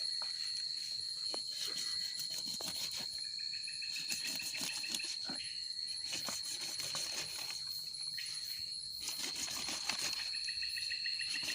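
Night insects calling: one steady, high-pitched shrill throughout, joined twice by a second insect's fast pulsing trill, with scattered small clicks and rustles of handling close by.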